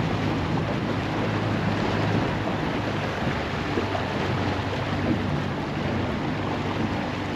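Boat motor running with a steady low hum, under wind buffeting the microphone and the wash of the sea.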